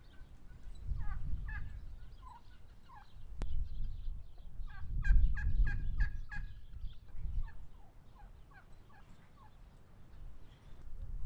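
Domestic fowl calling: scattered short calls, then a quick run of rapid repeated calls about five seconds in, over a low rumble.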